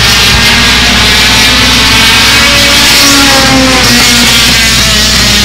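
U-Car division race cars' engines racing at speed around the track, with a falling engine pitch about three and a half seconds in as cars go past.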